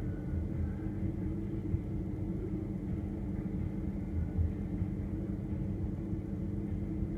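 Refrigerator running: a steady low hum with several held tones and a low rumble underneath.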